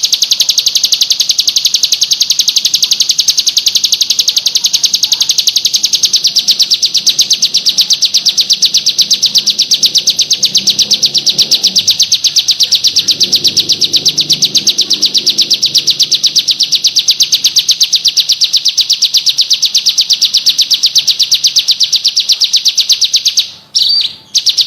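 A bird's high-pitched chirping call, repeated in a fast, even, unbroken pulse. Near the end it breaks off, and two short bursts follow.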